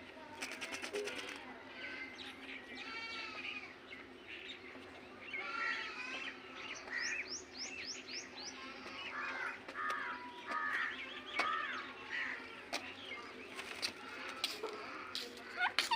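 Pet parrots chattering and squawking: a run of short, shrill, pitch-bending calls and chirps, with a quick string of rising whistles about halfway through. A few sharp clicks come near the end.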